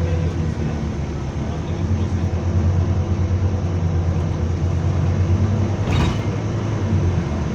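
A bus's diesel engine running with a steady low drone. A short hiss comes about six seconds in.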